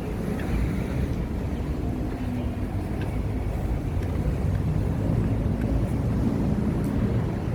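Steady low rumble of passing road traffic on a city street.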